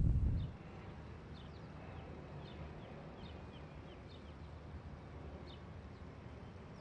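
Faint birds chirping, a scattering of short high notes, over a low steady background hum. Wind buffeting the microphone dies away in the first half second.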